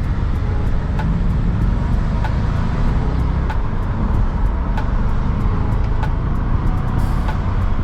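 Inside the cabin of an Audi S5 with its stock mufflers during a hard acceleration pull: a steady low road and wind noise, with the engine itself barely audible through the quiet factory exhaust.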